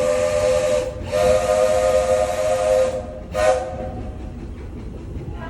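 Steam locomotive whistle of the Walt Disney World Railroad blowing a chord over steam hiss: one blast ends about a second in, a second long blast follows, and then a short toot.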